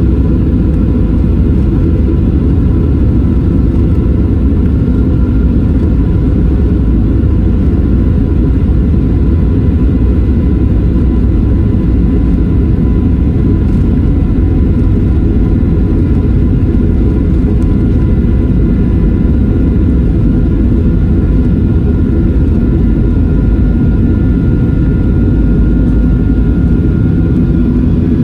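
Jet engines of a Boeing 737-800 (CFM56-7B turbofans) at takeoff power, heard inside the cabin: a loud, steady deep roar with a faint whine over it.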